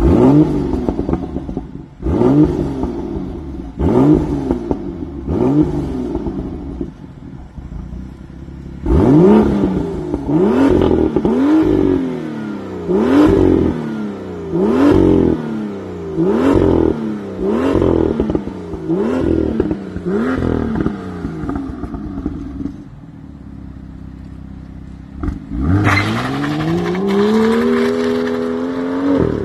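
BMW M2's turbocharged straight-six revved while parked: about four sharp blips a couple of seconds apart, then a quicker run of about ten, each climbing fast and falling back. It settles to idle for a few seconds, then the engine note rises and holds as the car pulls away.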